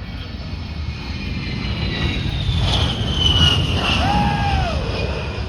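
Fairchild Republic A-10C Warthog jets passing overhead: a loud rumble under the high whine of its turbofan engines, which slowly falls in pitch and is loudest about halfway through. A brief tone that rises and falls comes near the end.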